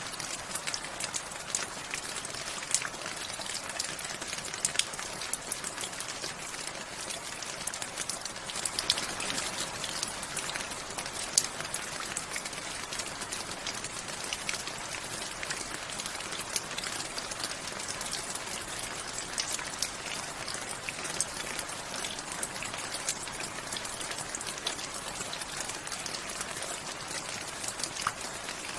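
Steady rain with distinct drops pattering and ticking close by, an even hiss scattered with sharp individual drop hits.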